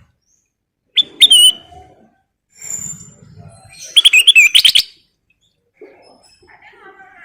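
Kutilang emas bulbul calling: two sharp high chirps about a second in, then a loud, fast run of eight or so chirping notes at about four seconds, with a faint low sound in between.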